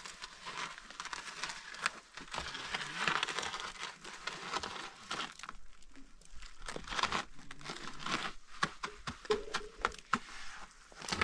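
Crinkling and rustling handling noise, with many scattered clicks and small ticks.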